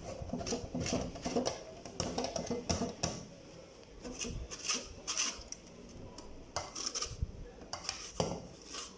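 A lemon being grated on a metal kitchen grater for its zest: an irregular run of short rasping strokes, with light metallic clinks.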